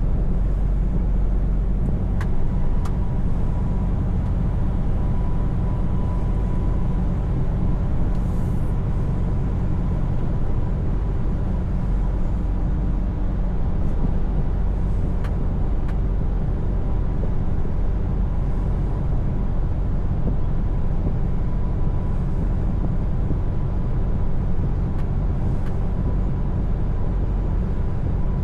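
Scania S580 truck's V8 diesel engine running at a steady pace under way, a low even drone with a few light clicks.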